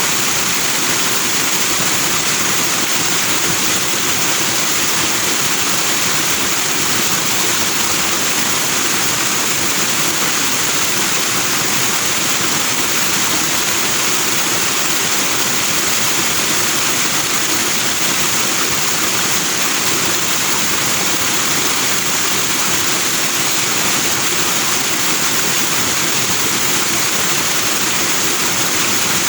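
Fast-flowing forest stream rushing and splashing over rocks in white foam: a steady, even hiss with no breaks.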